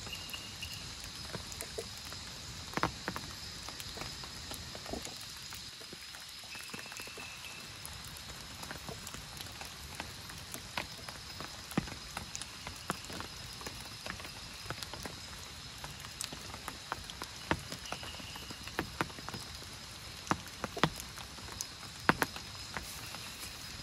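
Steady rain, with big drops landing in sharp, irregular taps, several of them loud. Behind it runs a steady high-pitched hum, and short high chirps come a few times.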